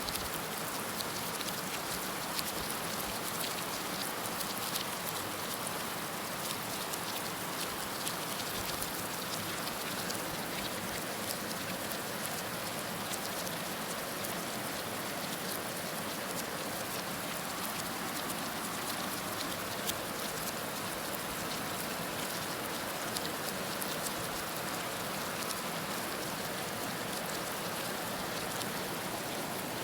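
Heavy rain falling steadily: a dense, even hiss of rain on surfaces, with many small drop ticks scattered through it.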